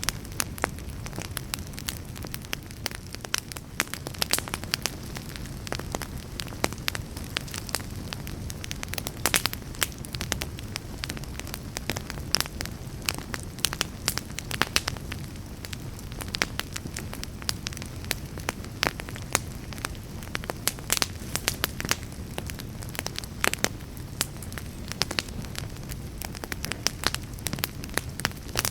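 Wood fire burning in a fireplace, with frequent sharp crackles and pops over a low steady rumble of the flames.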